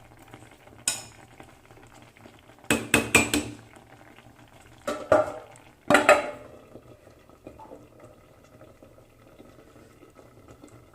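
Spoon clinking and scraping against a cooking pot while the simmering rice dumplings are stirred and checked for doneness. There are a few short bursts: one about a second in, a longer cluster around three seconds, and two more around five and six seconds, then it goes quieter.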